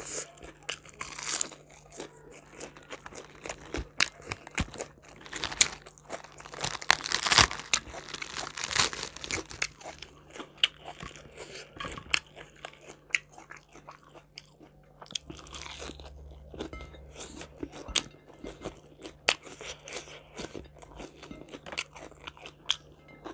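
Close-miked eating: a person biting and chewing raw cabbage and other food, with many crisp crunches, the loudest cluster a few seconds in, and quieter chewing between.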